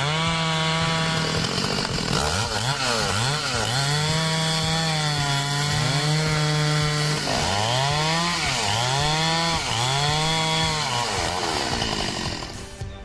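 Petrol chainsaw engine revved to full throttle and let back down, over and over, with one longer stretch held at full speed in the middle. The sound drops away near the end.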